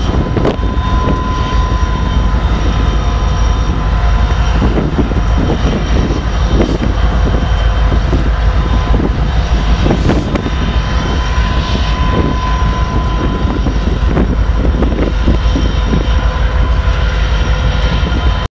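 Train passing close by: a loud, steady rumble with a few faint steady tones over it and scattered short knocks, and wind on the microphone.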